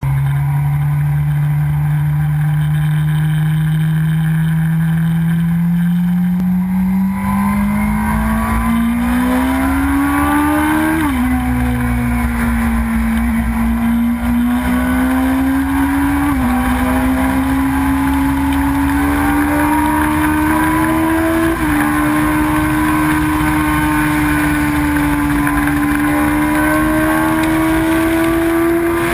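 Suzuki sport motorcycle engine heard from the rider's seat over rushing wind. It holds a steady note for the first few seconds, then climbs as the bike accelerates, dropping in pitch at each of three upshifts. Near the end it rises slowly at highway speed.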